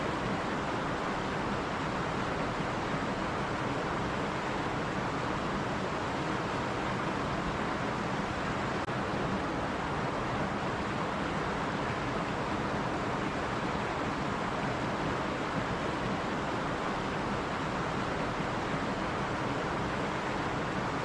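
Running stream water: a steady, unbroken rush.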